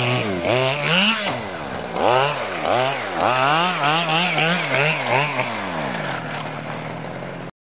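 Zenoah 26cc two-stroke engine being run in: it is blipped up and down in quick repeated revs, then settles to a steadier, lower speed, and cuts off abruptly near the end.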